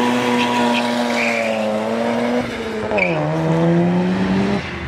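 2JZ-swapped Mazda FD RX-7's straight-six engine held at high revs as the car slides away sideways with tyre squeal. The revs drop at a shift about two and a half seconds in, hold lower, then cut off just before the end.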